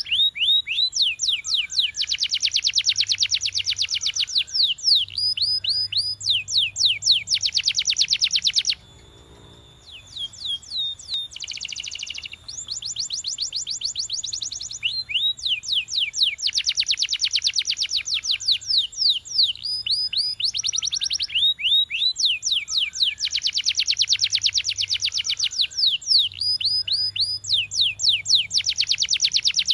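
Belgian canary singing: long phrases of rapid high trills and quick runs of down-slurred notes, broken by a short pause about nine seconds in.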